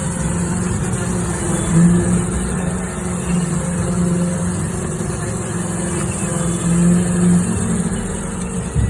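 Roomba robot vacuum running inside sheet-metal ductwork: a steady motor hum with a low drone that swells and fades.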